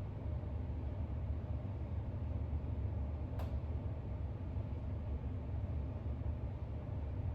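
Steady low background rumble with faint hiss, and a single short click about three and a half seconds in.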